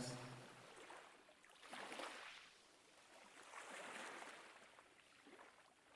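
Faint ocean waves washing in and drawing back, with two soft swells of surf about two seconds apart.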